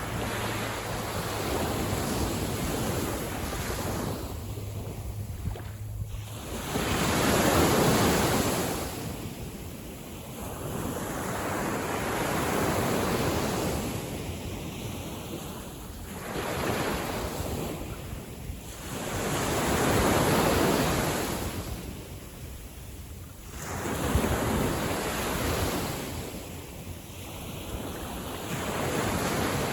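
Small waves breaking on a sandy beach and washing back, one surge every few seconds, with wind buffeting the microphone.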